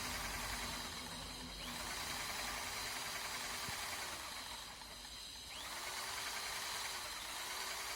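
Steady hissing noise that eases for about a second, twice.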